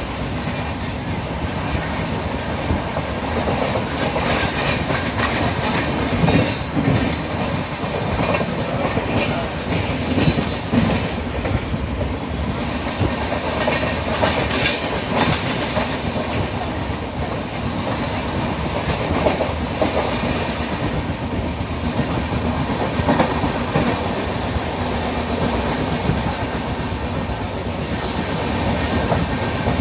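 Pallavan Express passenger train running at speed: a steady rumble with irregular clicks and knocks of the wheels passing over rail joints.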